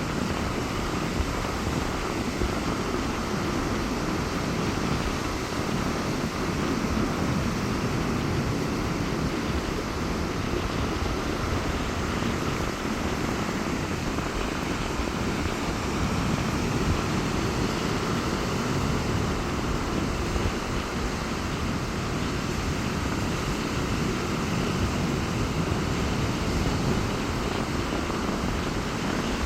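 Rough sea surf rushing onto a beach in strong wind: a steady, low rumbling wash with no let-up.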